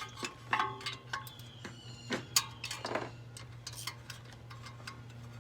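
Metal hand tools and sockets clinking and clattering: a scattered series of sharp clicks and knocks, some with short metallic rings, over a steady low hum.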